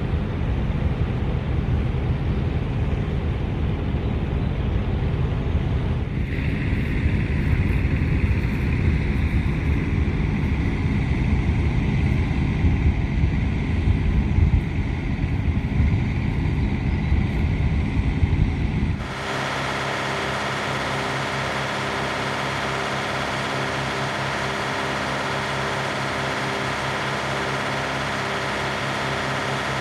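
Kenworth W900 semi truck driving, heard from the cab: a heavy, steady rumble of engine and road, with a steady high whine joining about six seconds in. About two-thirds through it cuts abruptly to a smoother, even engine drone with far less rumble.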